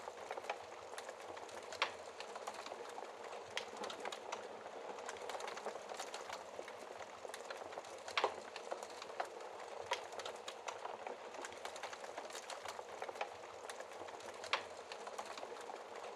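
Fire crackling in a fireplace: a continuous bed of small crackles with three louder pops, the sharpest about eight seconds in.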